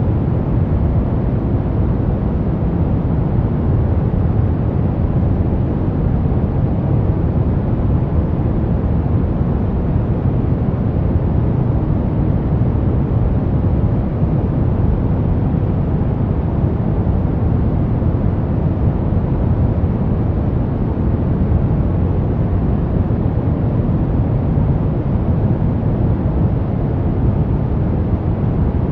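Steady synthetic brown noise: an even, unchanging rumbling hiss, heaviest in the low end and fading off toward the highs.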